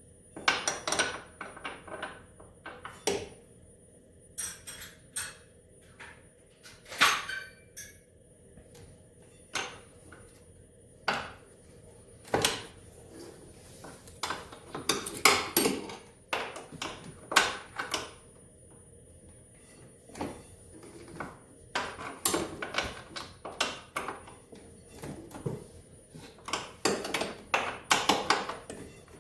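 Metal clinks and clatter of a non-ratcheting box-end wrench being fitted and swung, again and again, on a stubborn bolt of a snowmobile engine, in irregular bursts with short pauses.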